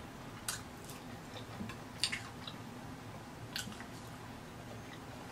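Close-up mouth sounds of a person chewing a mouthful of taco: a few short wet clicks and smacks, about a second and a half apart.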